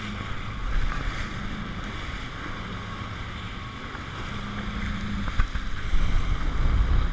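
Jet ski engine running with wind buffeting the microphone and water noise; the engine hum shifts pitch slightly and the rumble grows louder near the end.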